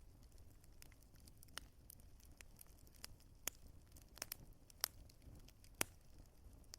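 Wood fire crackling: irregular sharp pops and snaps over a faint low rumble.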